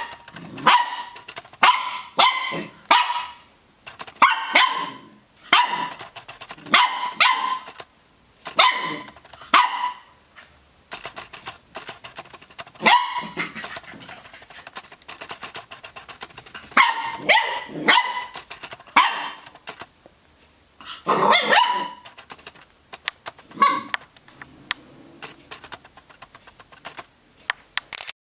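Griffon puppy barking: high-pitched yaps in quick bouts of two to four, with short pauses between the bouts and a quieter stretch near the end.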